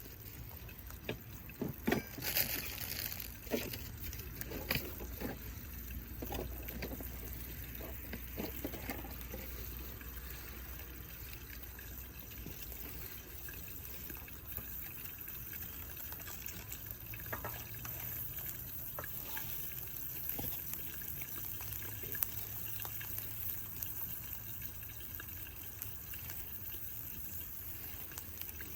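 Food sizzling and bubbling in a skillet over a campfire, a steady hiss with a few sharp crackles and knocks in the first few seconds.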